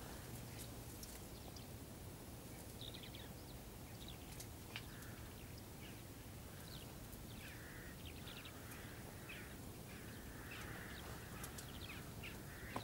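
Faint outdoor ambience: scattered short bird chirps and calls over a low steady rumble, with a sharp click about five seconds in and another near the end.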